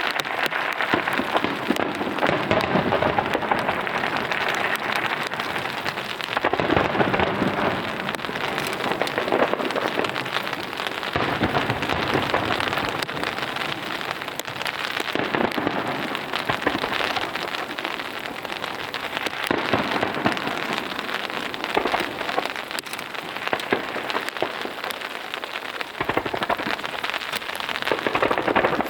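Heavy rain pattering steadily in a dense crackly hiss, with louder swells every few seconds.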